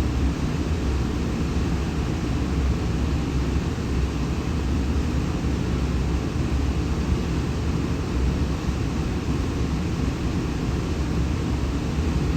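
Steady railway platform ambience: an even low rumble with a hiss on top and no distinct events.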